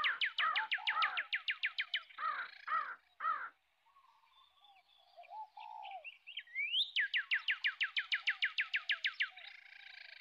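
Birds calling: one bird gives two fast runs of repeated down-slurred whistled notes, about six a second, each run opened by a rising note. Between the runs come lower, arched calls from other birds.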